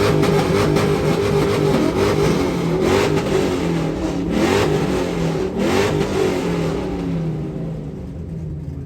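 A vehicle engine revving repeatedly, its pitch rising and falling, with several louder revs in the middle before it fades away near the end.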